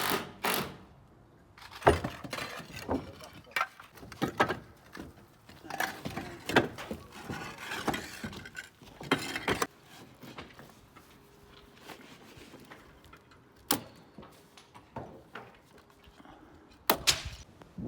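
Irregular knocks and clicks, sharp and uneven in spacing, with a louder pair of knocks near the end.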